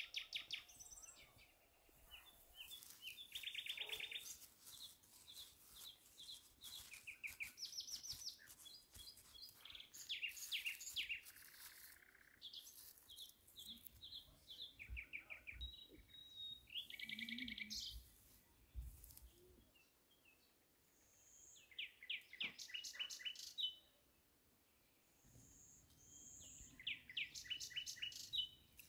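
Small songbirds chirping, with many short, rapid trills repeating throughout. Soft low scuffs of hands working garden soil come through near the middle.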